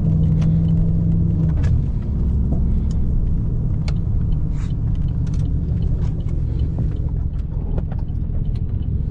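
Straight-piped 6.2-litre V8 of a 2010 Camaro SS running at low speed, heard from the cabin; the engine note drops lower about a second and a half in as the car slows, with scattered light clicks over it.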